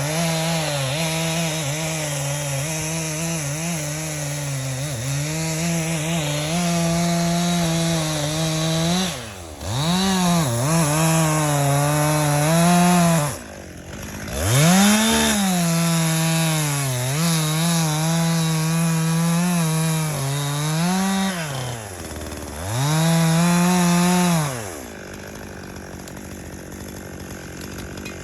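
Chainsaw cutting into an aspen trunk, its engine pitch sagging and wavering under load. The throttle is let off and revved back up three times, about 9, 14 and 22 seconds in, and the saw drops to a quieter level near the end.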